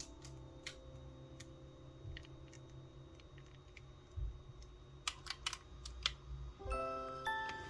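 Scattered light clicks and taps, several in quick succession about five seconds in. Lingering musical notes fade at the start, and music starts again near the end.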